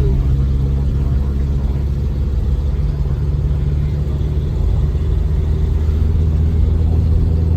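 Car engine and road noise as a steady low drone heard inside the cabin of a moving car.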